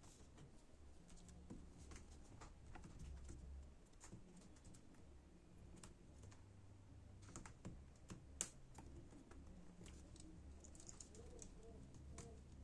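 Faint, irregular small clicks and taps from handling a laptop keyboard, with a sharper click or two a little past the middle, over a low steady hum.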